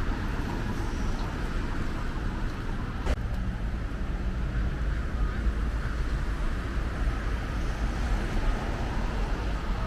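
Steady road-traffic rumble with low wind noise, and a single sharp click about three seconds in.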